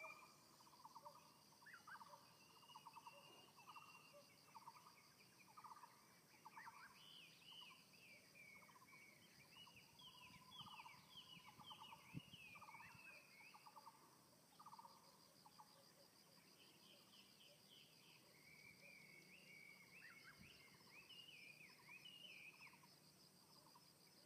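Several birds calling in the morning, faint: short rapid trilled phrases on a low note repeat over and over, while higher, arching whistled notes come in clusters. A steady high-pitched buzz runs underneath.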